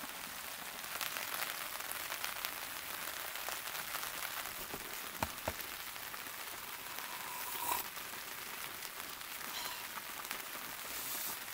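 Steady rain pattering on the tent, with a couple of light clicks about five seconds in.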